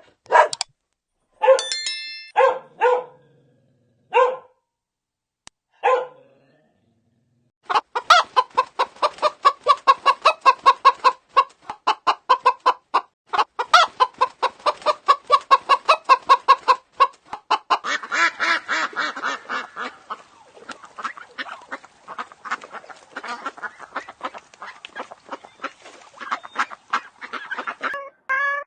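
Chickens clucking: a few separate calls in the first seconds, then a dense run of rapid clucks from about eight seconds in.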